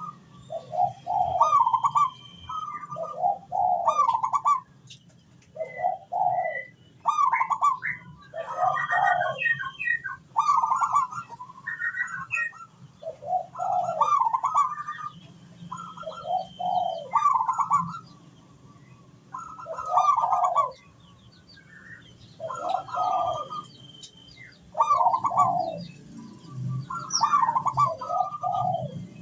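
Zebra doves cooing in repeated phrases with short gaps between them, in the rhythmic song kept as a lure to set other doves calling. Fainter high chirps from smaller birds sound between the phrases.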